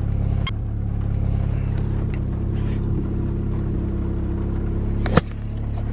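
Volkswagen MK7 GTI's turbocharged 2.0-litre four-cylinder idling steadily, heard from inside the cabin, with no sign of the clutch-chatter noise the owner is chasing. A sharp click about five seconds in.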